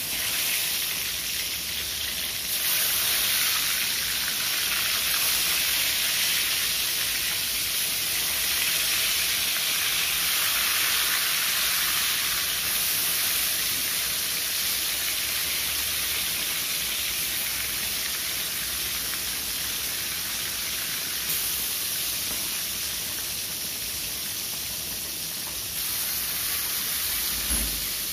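Battered pieces of food frying in hot oil in an aluminium wok, a steady sizzle that gets louder about two seconds in. Near the end there is a short low thump.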